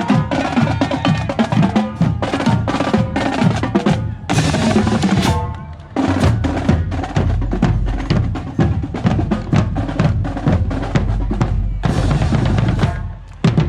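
Marching drumline of snare and bass drums playing a cadence of rapid, rhythmic strikes, with brief breaks about six seconds in and again near the end.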